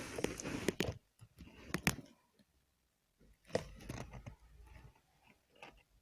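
Close handling noise: rustling scrapes with sharp clicks, in a burst during the first second or so and another from about three and a half to five seconds in.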